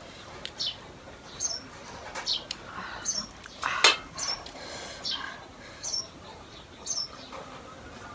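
A bird chirping again and again: short high chirps falling in pitch, about one a second. A brief, louder sudden noise comes a little before the middle.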